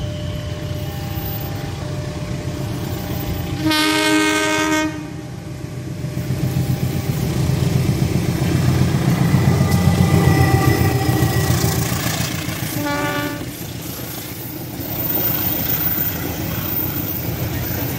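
CC201 diesel-electric locomotive sounding its horn in one chord-like blast of about a second, then its engine rumble growing louder as it passes close by, with a second, shorter horn blast later. Near the end, passenger coaches roll past with wheel clatter over the rails.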